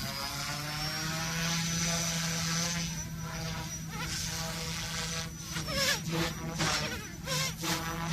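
Goosky S2 brushless RC helicopter in flight: a high motor and rotor whine that rises in pitch over the first second or two, then holds steady over a low steady hum. From about five and a half seconds in, the rotor gives a rapid series of whooshing surges.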